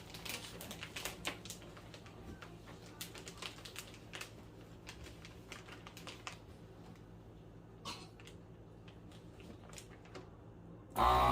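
Light scattered clicks and taps of a plastic bag being handled and set in a countertop vacuum sealer. Near the end, the sealer's vacuum pump starts suddenly with a loud, steady motor hum.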